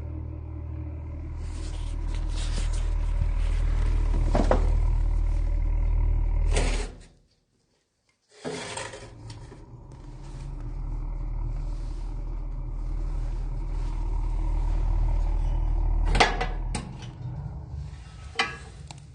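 Fire burning in a wood-fired fireplace stove with a steady low rumble and hiss. It breaks off abruptly for about a second and a half partway through, then resumes, with a couple of sharp knocks near the end.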